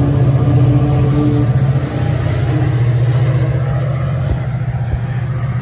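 Metrolink bi-level commuter train pulling out of the station, with a loud, steady low drone from its diesel engine and rolling stock.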